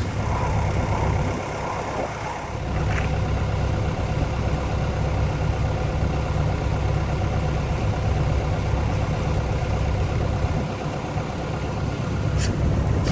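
John Deere 60G mini excavator's diesel engine running steadily, with one brief sharp click near the end.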